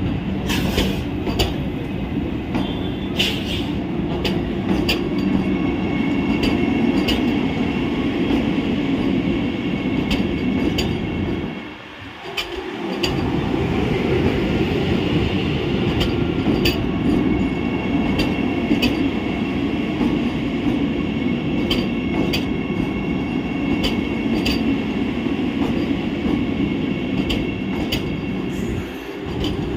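Vande Bharat Express electric multiple-unit train rolling slowly past along a platform. A steady rumble of wheels on rail runs throughout, with sharp clicks every second or so and a faint high whine. The rumble drops briefly about twelve seconds in.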